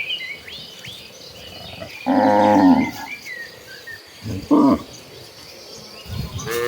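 Cattle mooing: a loud moo about two seconds in, a shorter call a couple of seconds later, and another beginning near the end, with small birds chirping between them.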